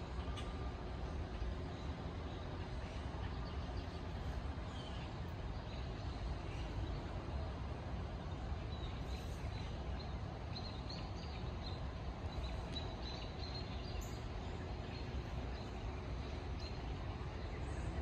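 Scattered faint, short bird chirps over a steady low background rumble.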